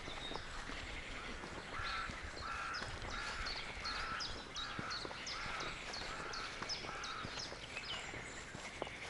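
A bird calling in a steady series of about nine notes, roughly two a second, starting about two seconds in and stopping near the end, with light footsteps on the forest floor.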